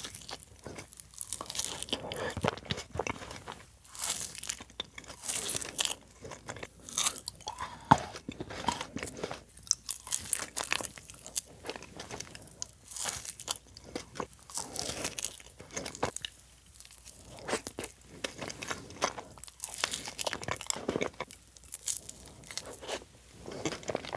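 Close-miked eating: crunchy bites and chewing of sweet desserts, a dense run of irregular crackles and crunches.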